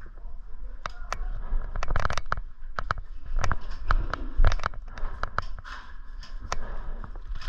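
Airsoft guns firing: irregular sharp cracks and snaps, some coming several in quick succession.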